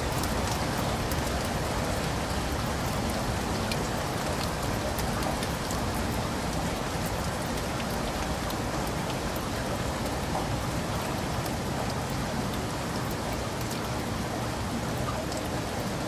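Heavy rain falling steadily in a forest, a dense even hiss with individual drops pattering close by.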